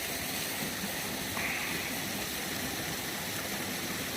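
Steady rushing of a stream and waterfall, an even hiss of running water.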